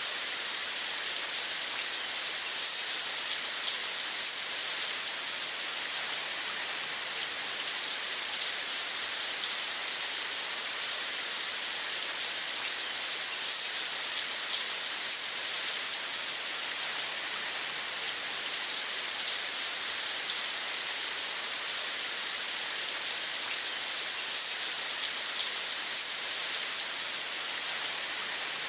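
Steady rain falling, a constant even hiss with a fine patter of drops and no change in strength.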